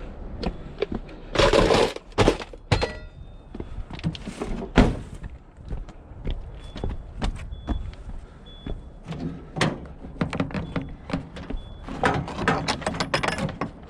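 Scrap being handled and thrown about: a run of knocks, clanks and rattling crashes, the loudest about one and a half seconds in, near five seconds, and in a cluster near the end.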